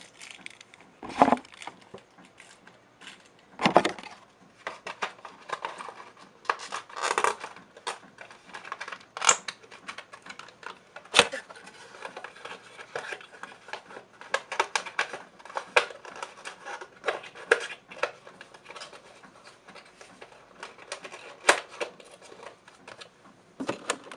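Hands handling a 1/400 scale diecast model airliner and its packaging: irregular rustling and small clicks, with a few sharper knocks spread through.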